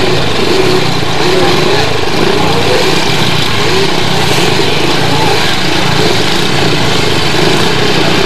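Several speedway motorcycles' engines running at the start line, their note wavering up and down a little without pause.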